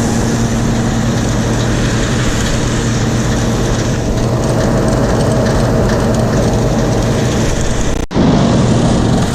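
John Deere 7720 combine running steadily while harvesting wheat: a loud, even drone of the diesel engine and threshing machinery with a low hum. The sound cuts out for an instant near the end, then resumes.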